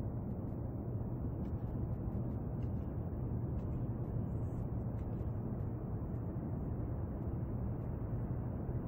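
Steady low rumble of outdoor background noise picked up by a compact camera's microphone, with no distinct events.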